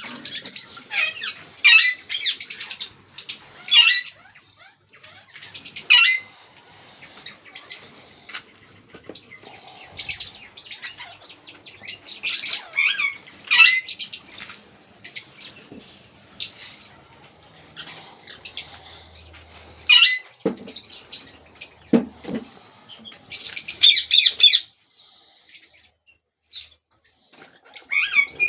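Ringneck parrots squawking in short, harsh calls repeated every second or two, with two dull thumps about twenty seconds in.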